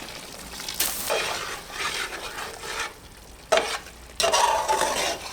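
Chicken and masala sizzling in a karahi over a wood fire while being stirred, the sizzle flaring up in several surges, the loudest one near the end.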